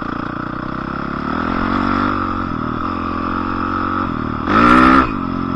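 Dirt bike engine running steadily, with one short, loud rev of the throttle about four and a half seconds in.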